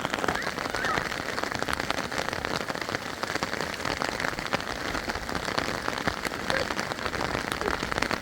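Steady heavy rainfall, a dense patter of drops striking surfaces.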